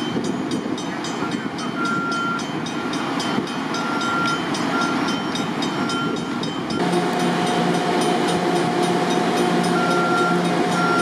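Stationary electric commuter train humming at a platform while a level-crossing bell rings in a steady rapid rhythm. About seven seconds in, a louder, steadier hum with several pitched tones takes over.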